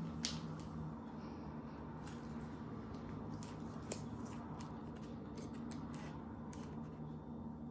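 Scattered light clicks and rustles of hands handling gingerbread kit pieces and an icing bag, with one sharper click about four seconds in, over a steady low hum.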